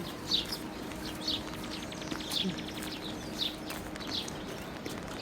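A bird calling over and over, a short high note falling in pitch about once a second.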